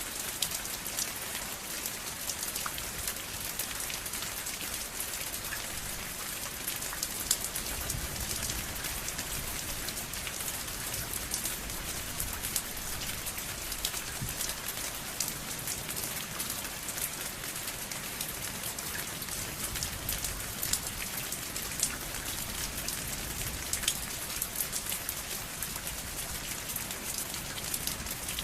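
Steady rain falling, with many distinct drops pattering sharply on a hard surface.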